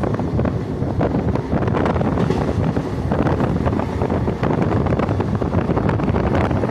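Running noise of an ICF passenger coach on the move, a steady rumble of wheels on track, with wind buffeting the microphone.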